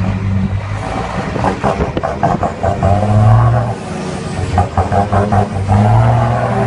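Scania truck's diesel engine running and swelling in revs three times, near the start, about three seconds in and near the end: throttle blips of 'ara gaz', rev-matching between gear shifts.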